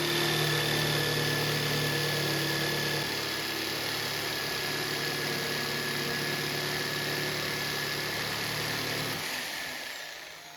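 An electric power tool running steadily with a low hum, a high whine and loud hiss, then switched off near the end, its noise dying away.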